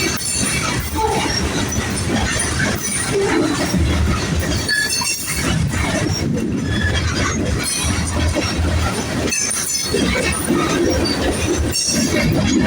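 Freight cars of a manifest train rolling past, steel wheels running on the rail with short, high-pitched flange squeals coming and going.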